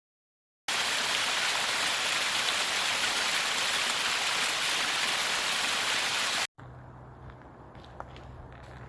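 Steady rush of running water, cutting in abruptly, then cutting off after about six seconds. It gives way to a much quieter outdoor background with a low hum and a few light ticks.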